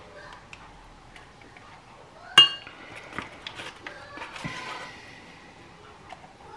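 Metal teaspoon scraping and tapping while cornflour is spooned from its cardboard box into a glass measuring jug, with one sharp ringing clink of the spoon about two and a half seconds in.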